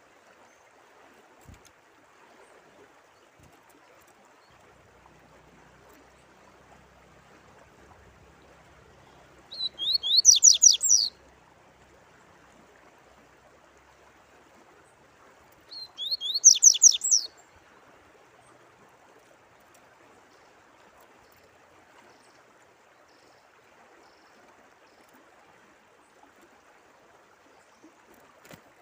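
A songbird sings the same short phrase twice, each a quick run of repeated chirping notes lasting about a second and a half, over a steady trickle of running water.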